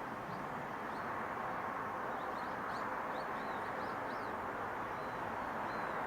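Steady outdoor background rush of wind and distant traffic, with small birds chirping faintly through it, a run of short high chirps clustered between about two and five seconds in.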